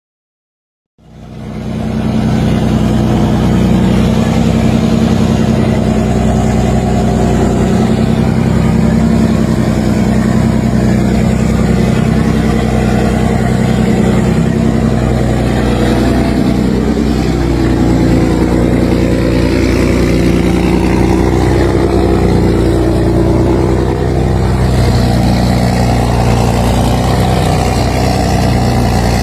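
Twin Scania 477 hp marine diesel engines of a river passenger boat running at full throttle, a loud steady drone that fades in about a second in.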